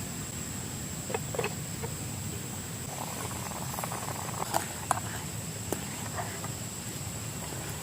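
Insects giving a steady high-pitched trill over a low, even background hum, with a few light clicks and knocks and a brief rustle in the middle.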